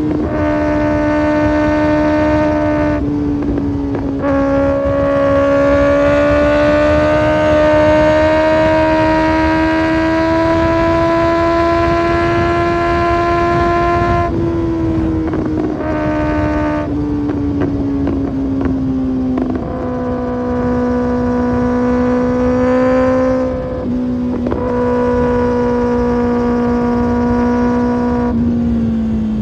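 2025 Kawasaki ZX-6R inline-four with an Arrow Pro Race exhaust running at high revs under way, its pitch holding nearly steady, slowly rising and then easing down. The tone breaks briefly several times.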